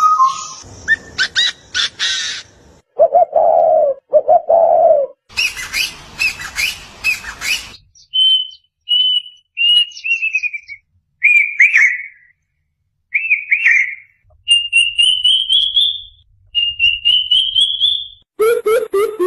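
A string of different bird calls that change abruptly every few seconds: a low two-part coo, then dense chattering chirps, then short whistled notes, falling calls, and two long rising whistles near the end.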